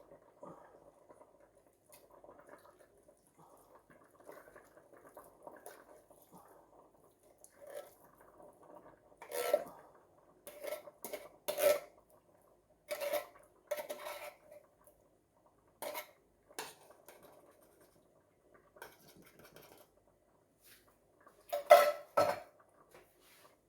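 Utensil stirring in a cooking pot of simmering dessert: soft scraping at first, then intermittent sharp clanks against the pot, the loudest near the end.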